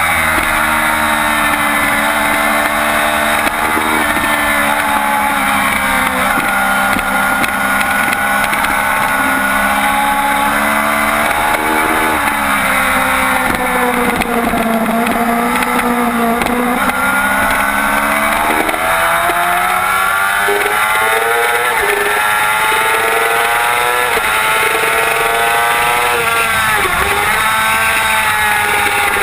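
2007 Yamaha YZF-R6's inline-four engine running hard at high revs on track, its pitch rising and falling again and again through gear changes and throttle on and off.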